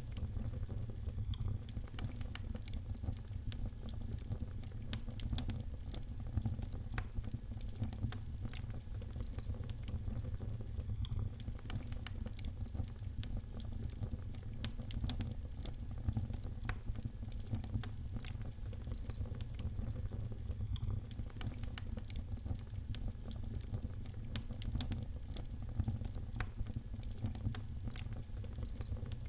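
Wood fire crackling in a fireplace: many small sharp pops and snaps over a steady low rumble.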